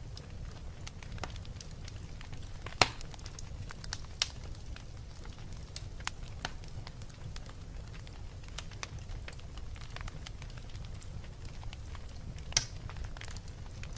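Wood fire burning in a fireplace: scattered crackles and sharp pops over a low steady rumble. The loudest pops come about three seconds in, a second later, and near the end.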